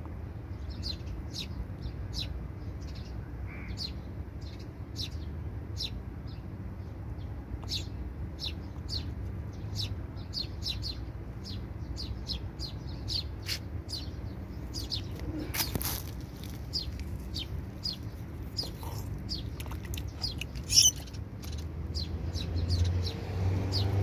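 A bird chirping over and over, short high chirps about two to three a second, over a low steady rumble. A sharp click near the end.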